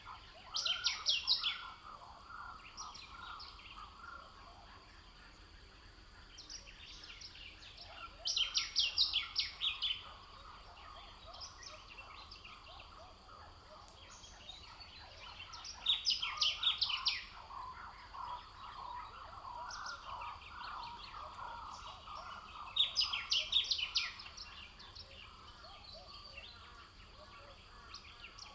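Birdsong: a bird repeats a short, rapid, high phrase of quick notes four times, about seven seconds apart, over a continuous lower background chorus.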